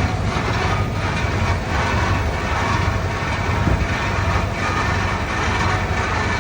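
Komatsu D31P crawler bulldozer running under load: a steady low diesel drone with a rhythmic clatter from the steel tracks, about one clank a second.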